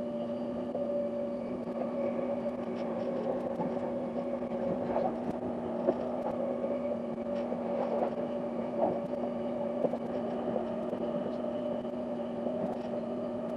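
Steady running noise of an electric limited express train heard from inside a passenger car: a hum of several steady tones over an even rushing noise, with scattered light clicks.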